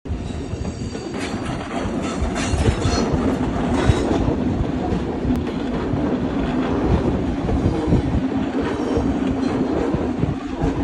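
A train running on the tracks: a steady low rumble of wheels on rail with a constant low hum.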